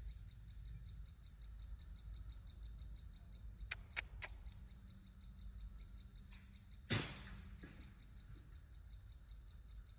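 Faint outdoor ambience with a high chirp repeated steadily about five times a second. A few sharp clicks come about four seconds in, and a brief louder noise about seven seconds in.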